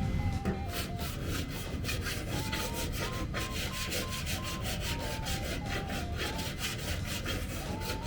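Quick, even hand strokes of a file or sanding block scraping across a car body panel during dent repair, about four or five strokes a second.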